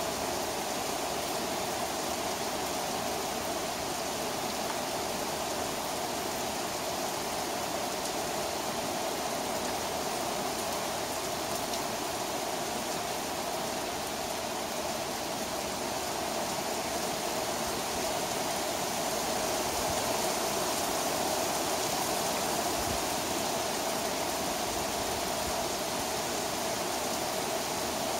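Heavy rain pouring down in a thunderstorm: a steady, dense hiss of downpour that swells a little about two-thirds of the way through.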